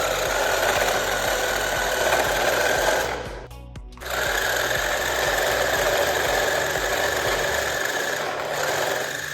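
Small electric motors and plastic gearboxes of toy RC cars buzzing and whining steadily under load. About three seconds in they cut out for roughly a second, then start again.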